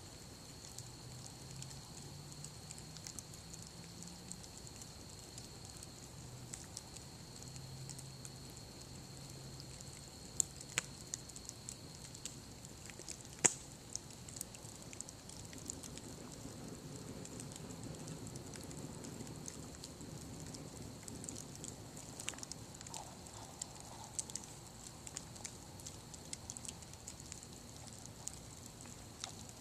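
Campfire of broken furniture crackling as it burns down, with scattered irregular pops and two sharper, louder pops partway through.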